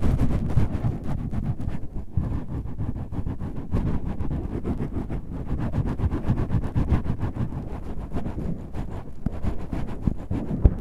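Microphone windscreen being scratched and rubbed directly on the microphone: a continuous low rumbling scratch with rapid fine crackles throughout.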